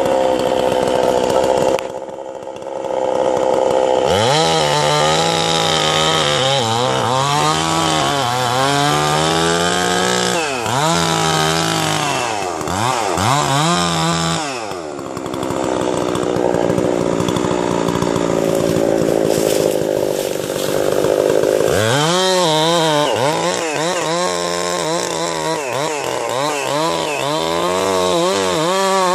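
A small, high-revving motor running loud, its pitch rising and falling again and again, with a steadier stretch in the middle.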